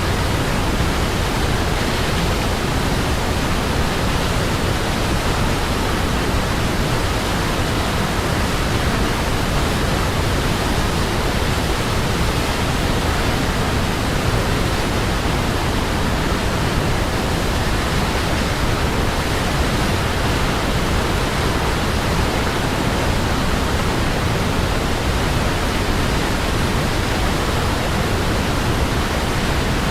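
Waterfall: falling water rushing steadily, a dense unbroken hiss heaviest in the low end, with no changes in level.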